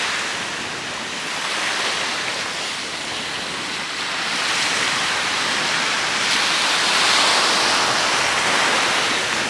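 Ocean surf washing ashore, a steady rushing hiss that swells and eases every few seconds as waves break.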